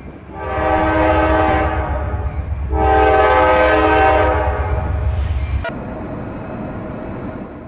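Train horn sounding two long blasts back to back over the low rumble of a moving train. The rumble cuts off suddenly near the end.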